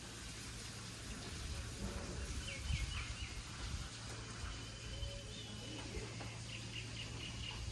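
Small birds chirping in short runs of quick notes, about two seconds in and again near the end, over a steady low hum and background noise.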